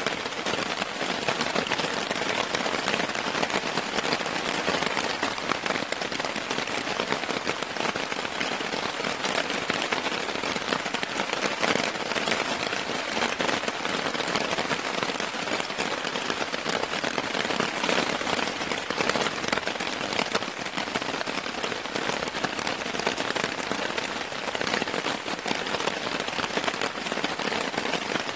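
Steady rain, with a dense crackle of sharp drop hits on a tarp overhead.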